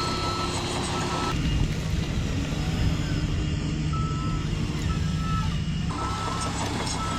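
RC construction truck's on-board sound unit playing a steady diesel engine note with intermittent reversing-alarm beeps, over the whir of the model's drive.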